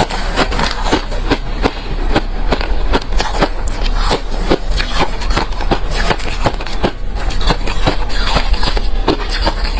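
Close-up chewing of refrozen crushed ice: a steady run of loud, crunchy cracks and crackles, several a second, as hard ice breaks between the teeth.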